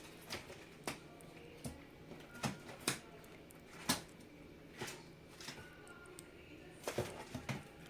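Irregular sharp taps and knocks, about a dozen, from a baby parrot scrambling and flapping inside the container it is kept in, trying to get out.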